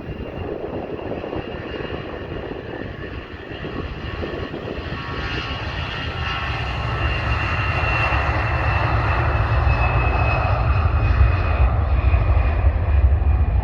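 An airliner's engines running and growing steadily louder as it nears: a high whine over a deepening rumble that is loudest near the end.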